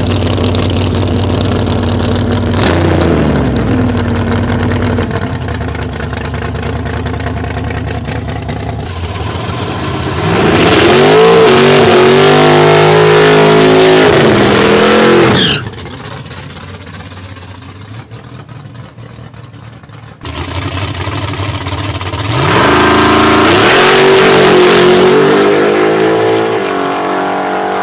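Drag-racing car engines. One idles with a quick blip of the throttle. About ten seconds in, a car revs hard and holds high revs for several seconds through a tyre-smoking burnout. Near the end another car revs up hard again at full throttle.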